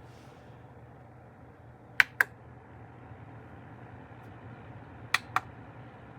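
Vornado AVH10 electric space heater running with a steady fan hum, broken by two pairs of sharp clicks, the first about two seconds in and the second about five seconds in.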